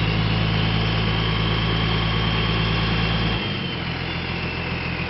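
Crane truck engine running steadily with a faint high whine over it; a little over three seconds in, the engine drops abruptly to a lower, quieter note and the whine fades away.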